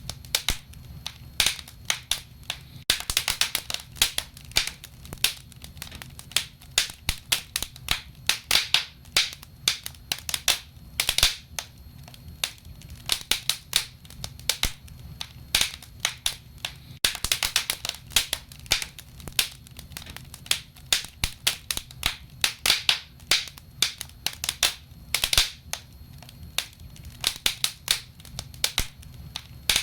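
Wood fire crackling: many sharp, irregular pops and snaps, some in quick clusters, over a low steady rumble of the burning logs.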